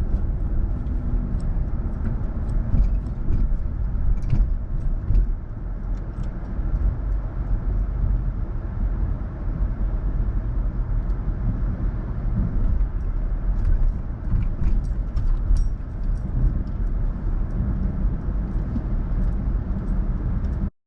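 Steady low engine rumble of a running vehicle, with scattered faint clicks and knocks; it cuts off suddenly near the end.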